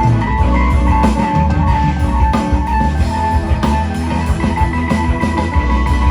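A live rock band playing, with electric guitar, bass and drum kit, the guitar holding sustained notes over a steady beat.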